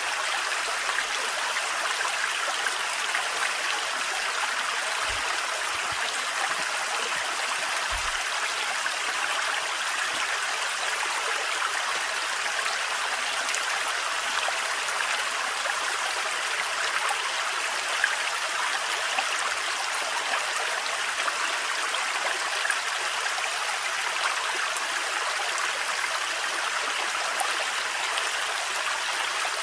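A small, thin forest waterfall splashing steadily: an even, unbroken rush of falling water.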